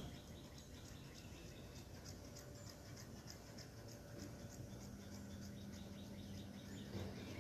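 Faint outdoor ambience with a rhythmic high-pitched chirping, several chirps a second, and a steady low hum that comes in about two-thirds of the way through.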